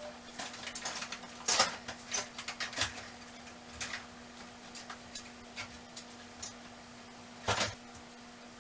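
Hand tools clinking and clunking as they are handled and sorted into toolboxes, with two louder knocks, one about a second and a half in and one near the end. A faint steady hum underneath.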